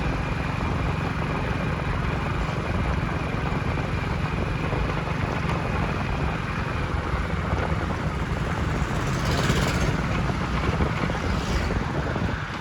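Steady engine and road noise from a vehicle driving along a road, with a low hum underneath. Near the end, two brief hissing swells rise and fade.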